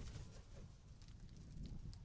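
Magpies and crows pecking at food: scattered light taps and clicks of beaks on the feeding surface over a low steady rumble.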